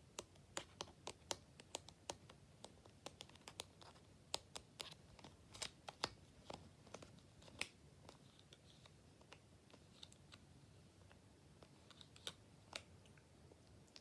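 A run of light, irregular clicks and taps, quick and close together for about the first half, then fewer and more spaced out.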